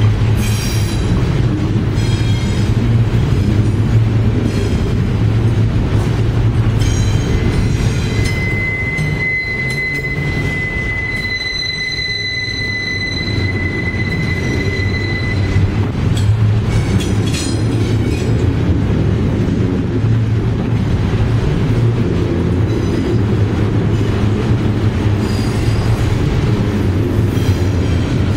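Norfolk Southern freight train's loaded container well cars rolling past: a steady low rumble with scattered clacks of wheels over the rails. A high, steady wheel squeal runs from about eight to sixteen seconds in.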